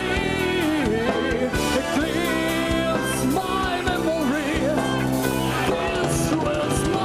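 Progressive rock band playing live: a full band with sustained chords and a wavering, bending lead melody over them, and cymbal crashes now and then.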